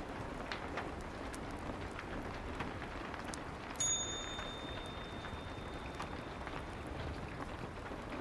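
Steady soft rain with scattered fireplace crackles, and about four seconds in a single high bell-like ding that rings out for a couple of seconds: the pomodoro timer chime marking the end of a 25-minute work session.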